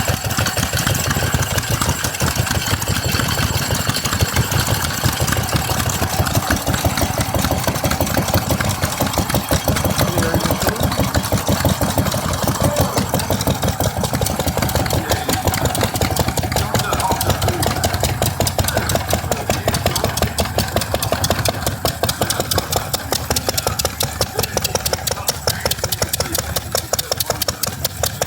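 Stationary engine running steadily, its exhaust beat a fast, even rhythm.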